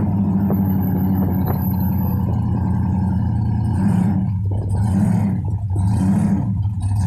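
Supercharged 1957 Chevrolet's engine running as the car drives, heard from inside the cabin. About four seconds in, the steady drone turns into an even rise and fall roughly once a second.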